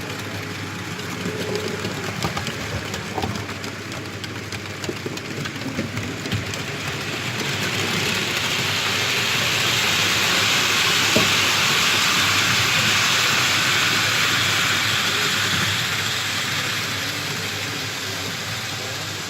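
Model train running along the track, the whirr of its motor and wheels with rapid fine clicks. It grows louder as it passes close, is loudest in the middle, then fades.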